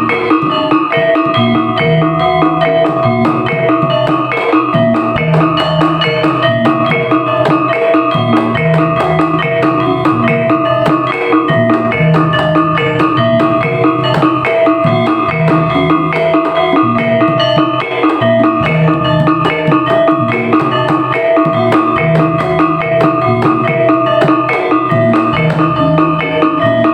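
Topeng Ireng dance accompaniment: drums playing a repeating rhythm under ringing, gamelan-style tuned metal percussion.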